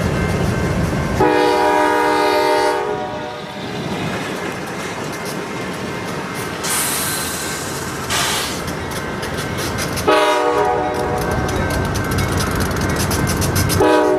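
Canadian Pacific GE ES44AC diesel locomotive's air horn blowing for a grade crossing whose warning devices failed to activate. There is a long blast about a second in, a shorter blast about ten seconds in, and another starting near the end, over the steady rumble of the idling locomotive. A hiss comes around seven seconds in.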